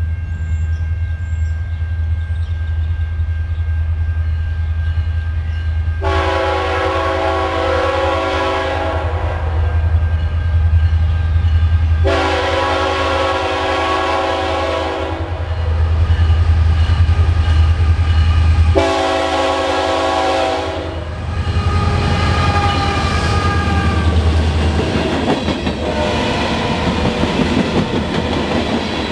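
Diesel freight locomotive approaching with a steady low engine rumble, sounding its horn in three long blasts about six seconds apart. Near the end the freight cars roll past, wheels clicking over the rail joints.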